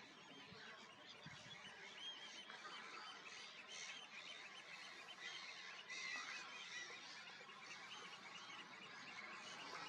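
Faint chorus of many birds calling at once: short, arched calls, repeated densely and overlapping, over a low background hiss.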